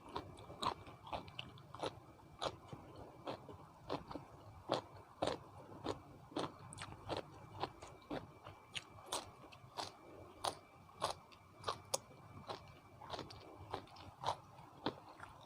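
Close-miked chewing of a mouthful of spicy seafood papaya salad, with short crisp crunches about twice a second.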